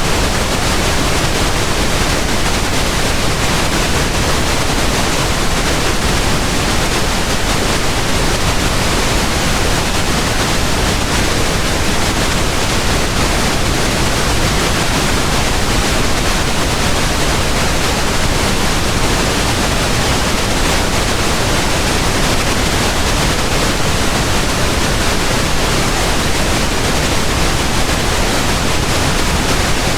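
Pink noise: a steady, unchanging hiss spread evenly across the whole range, with no events or variation.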